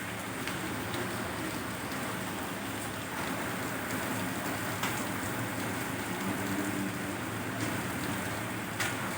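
Heavy rain pouring down, a steady hiss, with a faint low hum joining about three seconds in.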